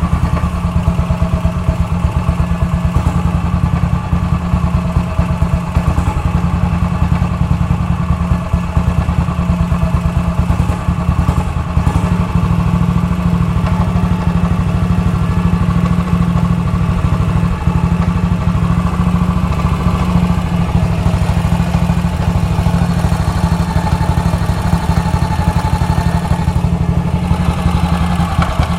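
1956 BSA Gold Star DB34's 500 cc single-cylinder engine idling steadily. The bike has an intermittent chattering knock from the primary side, which the owners suspect comes from the clutch.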